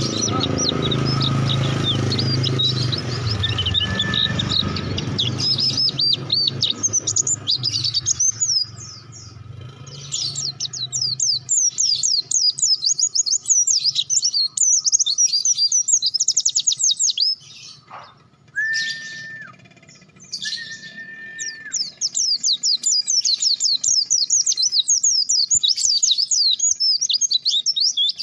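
Pleci (white-eye) singing a fast, high, continuous twittering song in long runs, breaking off twice near the middle. Two short, level whistled notes sound in that gap.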